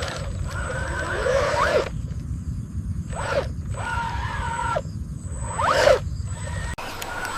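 Small electric motors and gears whining over a steady low rumble, the whine rising and falling in pitch three times, as of a radio-controlled model construction vehicle working. The rumble cuts off suddenly near the end.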